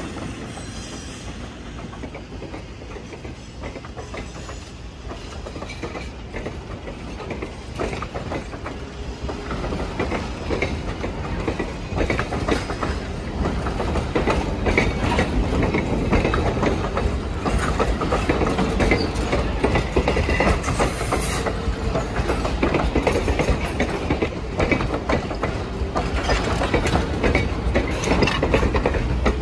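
Passenger cars of a train rolling past close by, their steel wheels clicking and clacking over the rail joints. The sound grows louder in the second half.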